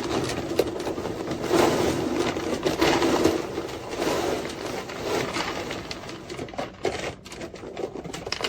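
Dry pet kibble pouring from a bag into a plastic storage container: a dense rattle of many small pieces hitting plastic and each other, thinning out after about six seconds.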